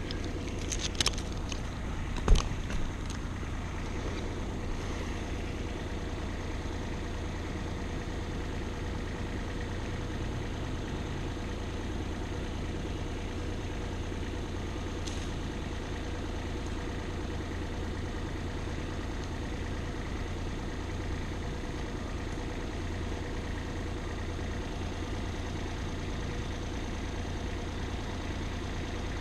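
An engine idling steadily, a low even drone, with a few sharp clicks or knocks in the first few seconds.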